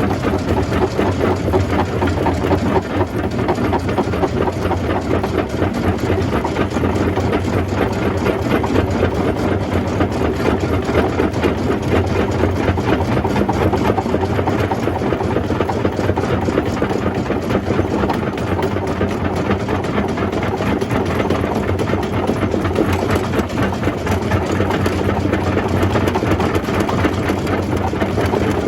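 Jaw crusher running steadily under load, rock being crushed: a dense, continuous clatter over a low steady hum.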